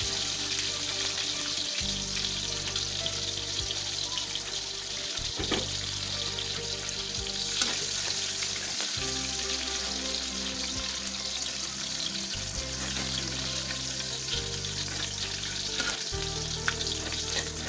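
Oil sizzling steadily in a wok as lemongrass, garlic and bird's-eye chili fry, stirred now and then with a metal spatula that scrapes against the wok.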